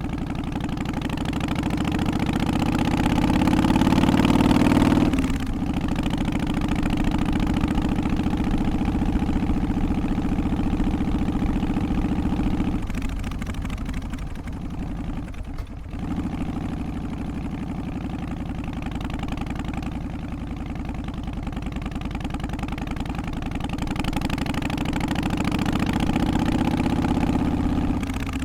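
Harley-Davidson FXST Softail's Twin Cam 88 V-twin engine running. Its note climbs for about four seconds and then drops sharply, holds steady, dips twice around the middle, and climbs again before dropping off near the end.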